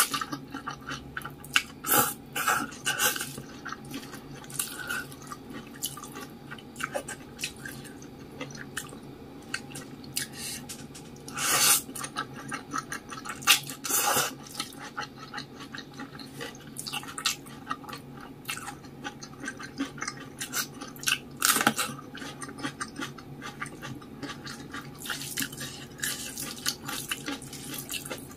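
Chewing and wet mouth sounds of someone eating saucy instant noodles with rice, many small clicks with scattered louder bursts, the loudest about twelve and fourteen seconds in.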